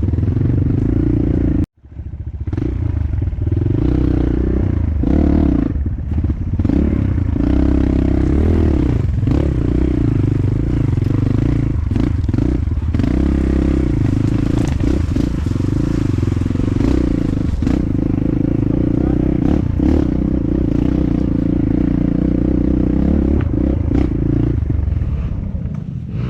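Dirt bike engine running on a muddy trail ride, with clattering and knocks from the bike over rough ground. The sound cuts out abruptly for a moment just under two seconds in.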